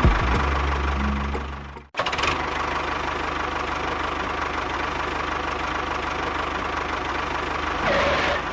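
A small engine running with a rapid, steady knocking beat. It cuts off abruptly about two seconds in, then resumes and runs steadily.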